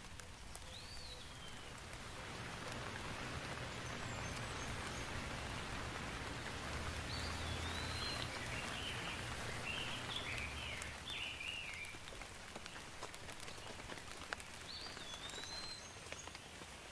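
Steady rain falling in a forest, growing heavier in the middle and easing again toward the end. Short bird chirps break through the rain near the start, several times in the middle and once near the end.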